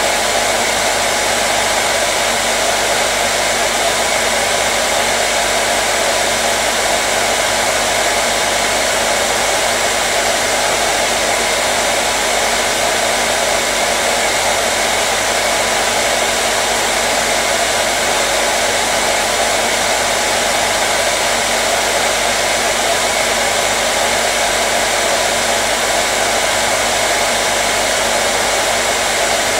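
Hair dryer running steadily without a break: an even rush of air with a faint steady motor hum under it.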